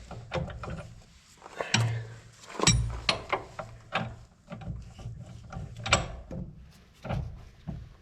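Hand tools and metal parts clanking and clicking irregularly while a corn planter wheel is taken apart for a bearing change, with a few sharper knocks about two, three and six seconds in.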